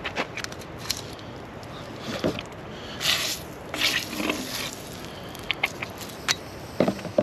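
Clicks, taps and two short scraping rustles about three and four seconds in, like things being handled, over a steady background hiss.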